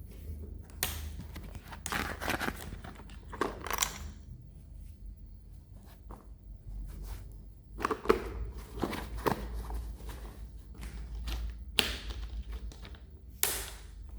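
Close-up handling of toy packaging: irregular bursts of crinkling and tearing with a few soft thunks.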